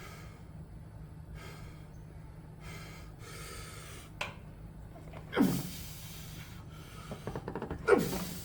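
A lifter breathing hard through exertion, with forceful exhales. Two louder ones, about five seconds in and near the end, fall in pitch. A steady low hum runs beneath.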